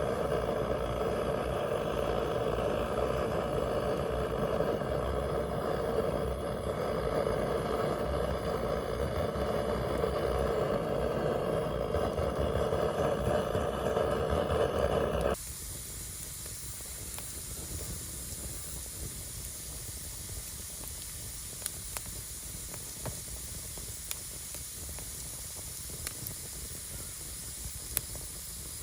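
A loud, steady rushing noise for about the first fifteen seconds cuts off abruptly to the quieter hiss of a burning wood fire, with a few sharp crackling pops.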